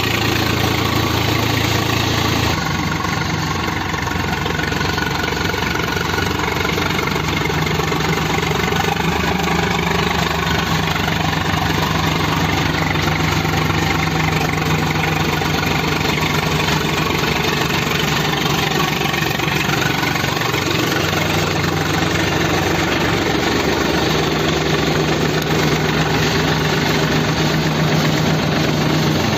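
Swaraj 744 tractor's diesel engine running steadily, its note shifting slightly a couple of seconds in.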